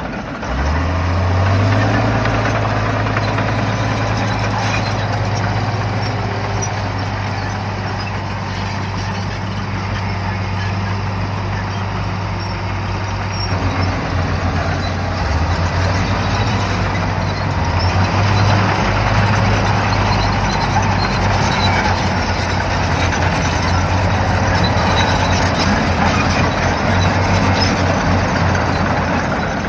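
Shantui bulldozer's diesel engine running under load, its pitch rising about a second in and shifting up and down several times, over the steady noise of the working machine.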